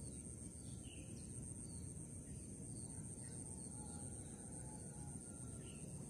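Faint outdoor ambience: scattered short bird chirps and a few thin whistles over a steady low rumble and a constant high hiss.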